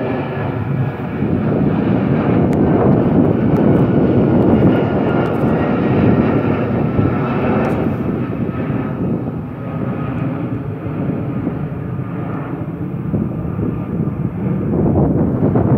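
Departing jet airliner's engines at takeoff power: a loud, steady rumble with faint whining tones above it, easing a little about nine seconds in and rising again near the end.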